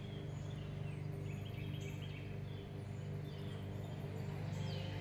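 Birds chirping in short, high calls over a steady low hum.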